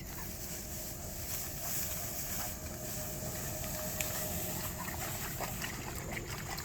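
Outdoor ambience: wind rumbling on the microphone over a steady high hiss, with a few faint clicks.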